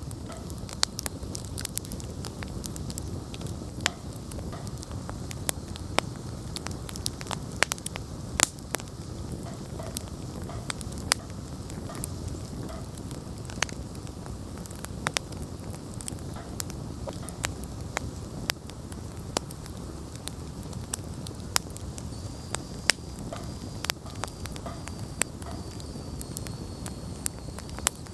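Wood campfire burning: a steady low rush of flames with frequent irregular sharp crackles and pops from the burning wood.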